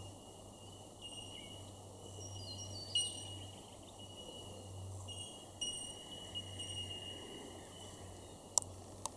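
Subtropical rainforest ambience: high steady ringing tones that start and stop every second or two, over a faint low hum. Two sharp clicks near the end.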